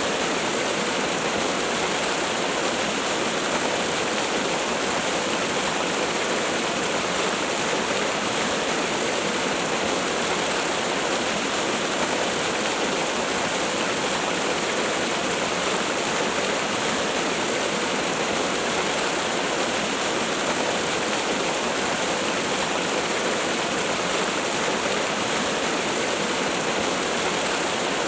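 Waterfall: falling water pouring steadily in an even, unbroken rush.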